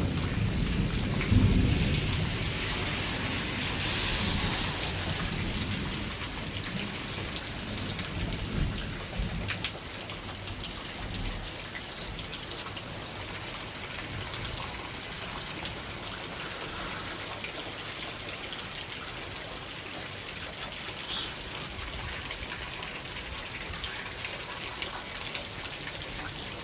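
Thunderstorm rain falling steadily, with a low rumble over the first ten seconds or so that is loudest about a second and a half in, then eases off, leaving the even hiss of the rain.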